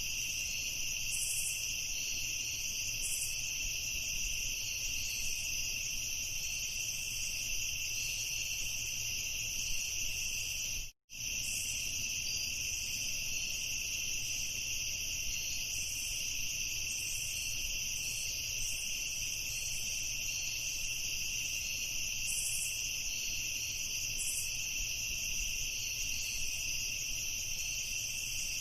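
Night chorus of crickets: a steady, unbroken high trilling in two pitch bands, with faint occasional chirps above it. The sound cuts out completely for a split second about eleven seconds in, then resumes unchanged.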